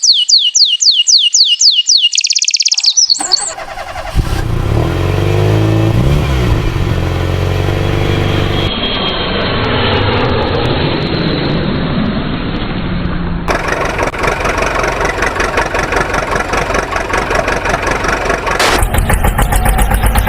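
Dubbed heavy-vehicle engine sounds. A quick run of high chirping whistle sweeps comes first, then an engine starts and revs with its pitch wavering. From about two-thirds of the way through, a steady pulsing engine takes over and gets louder near the end.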